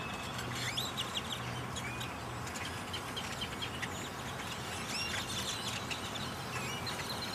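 A large swarm of birds calling all at once: a dense, continuous chorus of short chirps and whistles, over a steady low hum.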